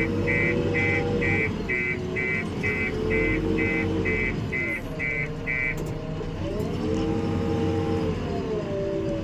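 JCB backhoe loader's diesel engine revving up and down in repeated swells as it works, with its reversing alarm beeping about twice a second until it stops about six seconds in.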